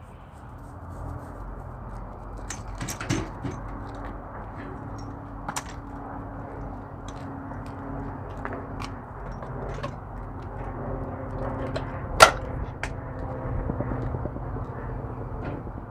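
Semi-truck diesel engine idling steadily, with scattered sharp clicks and knocks over it; the loudest knock comes about twelve seconds in.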